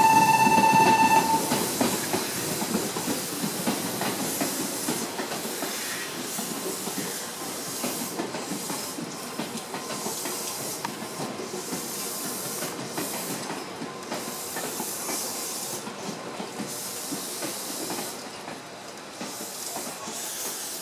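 A Meitetsu electric train at the platform: a steady horn tone cuts off about a second in, then the train runs along the platform with a hiss and faint rail clatter, fading slowly as it moves away.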